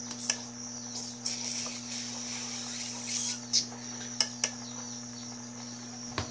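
Washing machine's water inlet valve solenoid humming steadily while energised to let in water, with a few short hissy puffs of breath blown into the pressure switch level hose and a couple of light clicks. The pressure switch gives no response to the blowing: nothing signals.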